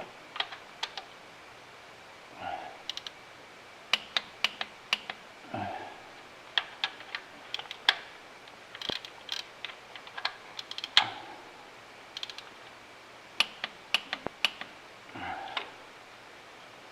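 Click-type torque wrench clicking repeatedly as the rocker lever bolts on a 5.9 Cummins are torqued, with sharp metal tool clicks throughout and a few short rasps.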